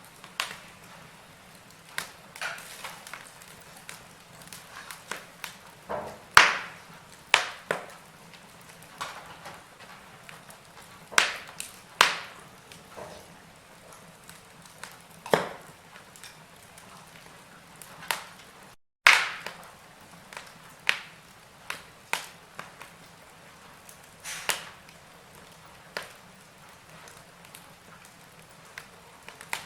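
Wood fire burning in a fireplace: irregular sharp crackles and pops from the burning logs over a low, steady hiss, with a few louder pops. The sound cuts out for an instant about two-thirds of the way through, then resumes with a loud pop.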